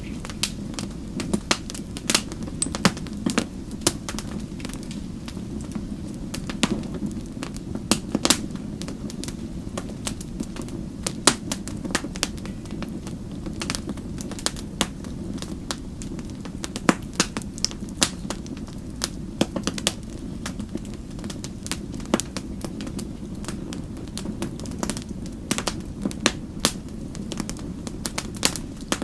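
Wood fire burning with a steady low rumble, with irregular sharp crackles and pops several times a second.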